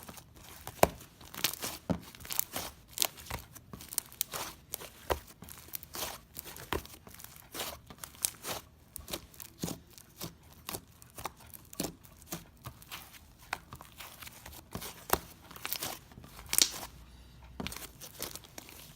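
Bubble-filled slime being squeezed and stretched by hand, its trapped air bubbles popping in an irregular run of small crackles and pops, several a second.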